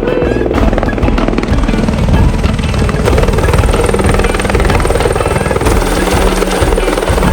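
Helicopter rotors and turbine running steadily, mixed with background music.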